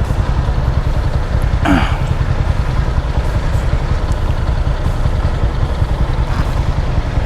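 Motorcycle on the move, recorded from an onboard camera: a steady engine rumble with heavy wind noise on the microphone. Just under two seconds in there is one short, higher-pitched sound.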